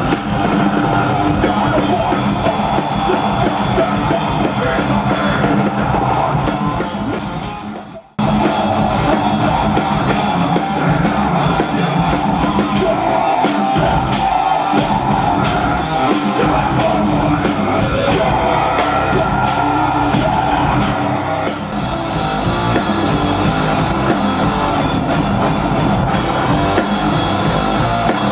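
Live rock band playing loud, with a driving drum kit and electric guitars. The music fades down and cuts out for a moment about eight seconds in, then comes back in suddenly and carries on.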